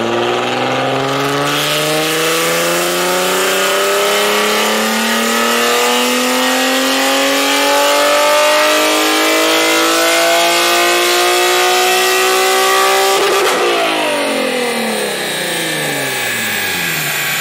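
Nissan 370Z's 3.7-litre V6 in one long, loud acceleration, its pitch climbing steadily for about thirteen seconds. Near the end the note breaks suddenly and falls away as the revs drop.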